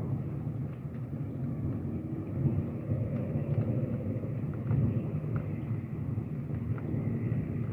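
Thunderstorm: a continuous, uneven low rumble.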